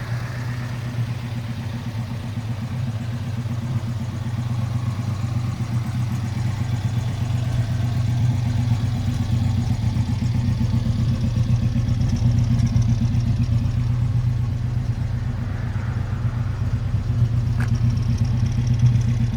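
1967 Alfa Romeo GT 1300 Junior's twin-cam four-cylinder engine running steadily, getting a little louder over the first few seconds.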